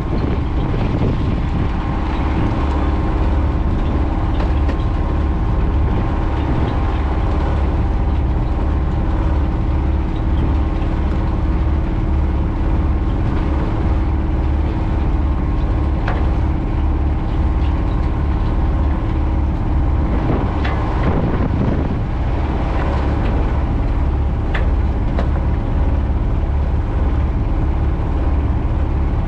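Sailboat's auxiliary engine running steadily under power, a constant hum with a heavy low rumble beneath it.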